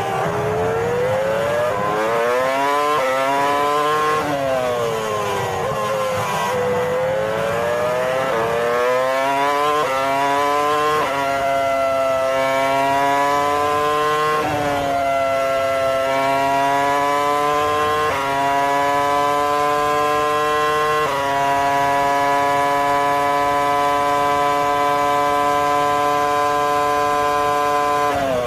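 An engine revving, its pitch rising and falling smoothly for the first several seconds. After that it holds steady pitches that change abruptly several times, like gear changes.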